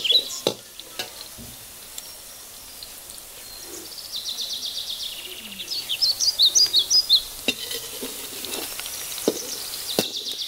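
Chopped okra sizzling in hot oil in a steel kadai, with a perforated steel spatula clinking against the pan a few times as it is stirred. Birds chirp over it, in a quick run of calls about six to seven seconds in.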